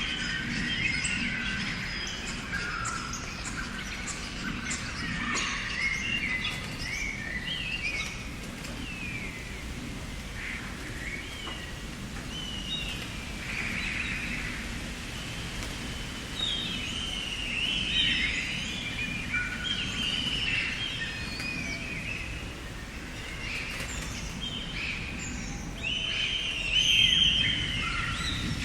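Several songbirds chirping and singing over one another, with short warbled phrases coming and going, busiest at the start and near the end, over a steady outdoor hiss.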